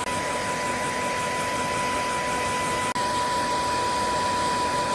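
Hair dryer running steadily: a constant rush of air with an even, high motor whine.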